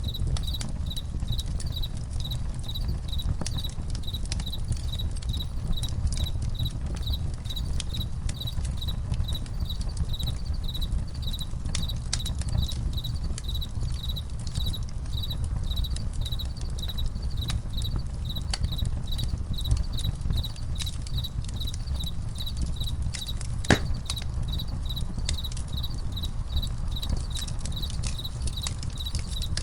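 Crickets chirping in a steady, regular pulse over a crackling campfire, with scattered pops and one louder pop late on, and a steady low rumble beneath.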